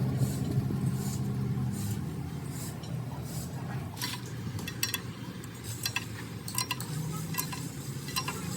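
Irregular metal clinks and taps, more frequent in the second half, over a low steady machine hum that weakens after about two seconds.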